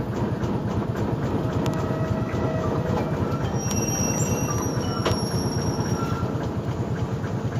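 Steady, fast rumble of a moving vehicle, with thin high squeals in the middle.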